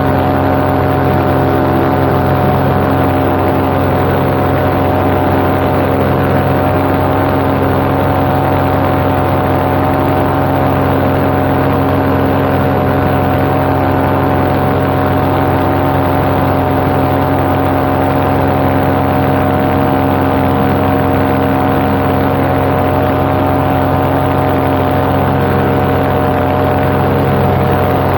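Paramotor engine and propeller running steadily at cruise power, holding one even pitch.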